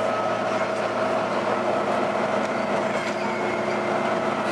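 Volvo B9TL double-decker bus running with a strange howling noise: a high tone held at a nearly steady pitch, with a fainter overtone above it, over the rumble of the moving bus.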